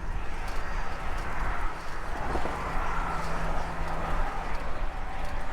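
Wind rumbling on the microphone of a bicycle being ridden uphill, with road traffic going by. A steady hum rises out of it for a couple of seconds partway through, like a vehicle passing.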